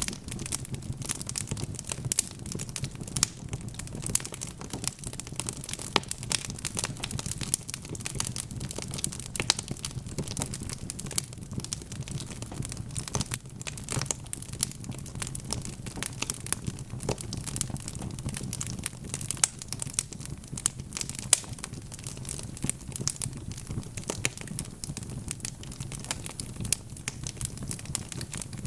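Wood fire crackling: a dense, irregular run of small snaps and pops from burning logs over a steady low rumble of flame, with a few sharper pops standing out.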